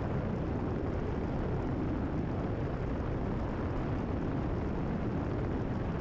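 Cessna 172RG's four-cylinder engine and propeller running steadily in a climb, heard as an even, low drone inside the cockpit.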